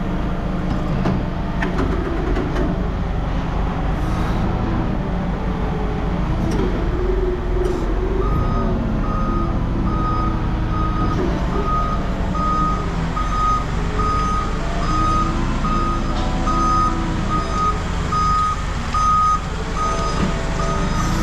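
A heavy vehicle's engine runs steadily. About a third of the way in, its reverse alarm starts a steady repeating beep that carries on to the end.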